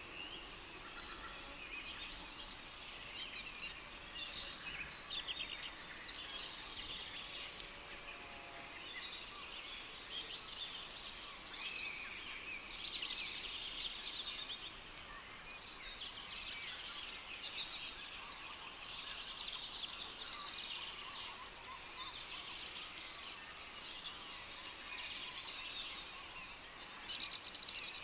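Rainforest ambience: a cricket chirps in a rapid, even pulse throughout, with brief pauses, while birds call irregularly in the background.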